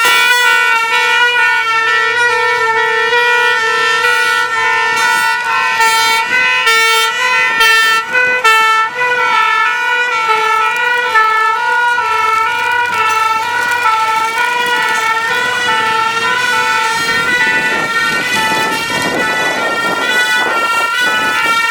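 Fire engine's two-tone horns sounding without a break, alternating steadily between two notes.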